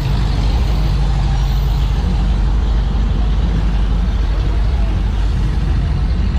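Motor-vehicle engine running with a steady low rumble, as of a classic car or hot rod idling or rolling slowly past.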